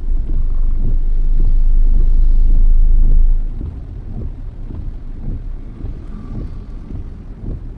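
Low rumble of a moving car heard from inside the cabin, heavy for the first three seconds or so, then easing to a lower, steady rumble.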